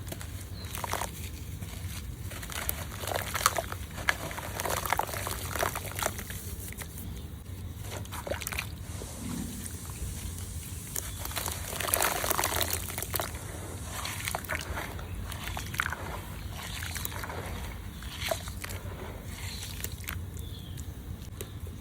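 Hands crumbling and squeezing lumps of gritty red dirt, dry and wet, giving irregular gritty crunches and crackles with soft wet squishing. The crunching is busiest and loudest about twelve seconds in.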